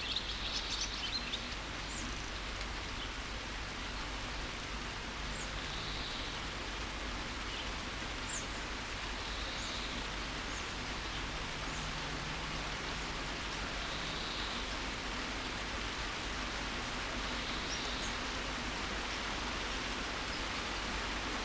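Steady rain falling, with a quick run of bird chirps near the start and then a soft bird call repeating every four seconds or so.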